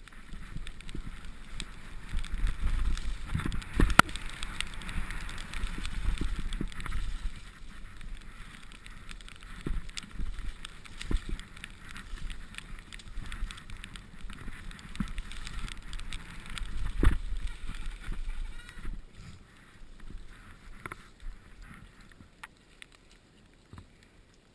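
Mountain bike riding down a rough, wet trail: rumbling tyre and frame noise with frequent sharp knocks from bumps. The hardest knocks come about four seconds in and again around seventeen seconds. The noise eases off after about nineteen seconds.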